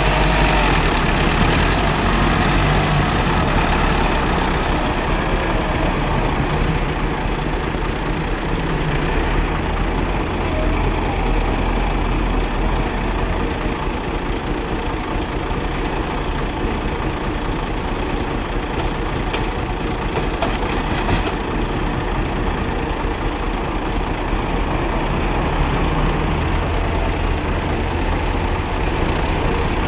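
Massey Ferguson 385 tractor's diesel engine running steadily at a low, even speed.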